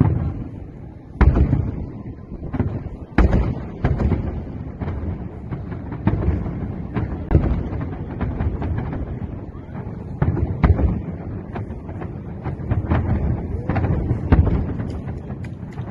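New Year fireworks going off: a continuous run of irregular sharp bangs and booms, each with a rumbling tail, the loudest about a second in, about three seconds in and near the end.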